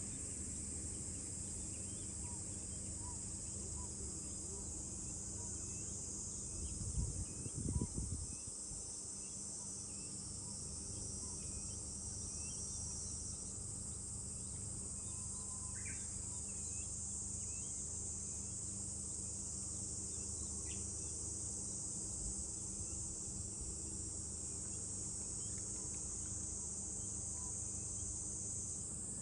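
Cicadas in a steady high-pitched summer chorus, with faint scattered bird chirps and a low rumble underneath that swells briefly about seven seconds in.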